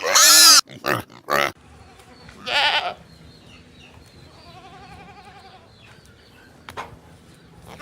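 Bleating animal calls: a loud wavering bleat at the start, two short calls just after, another bleat about two and a half seconds in, and a fainter, longer one around five seconds in.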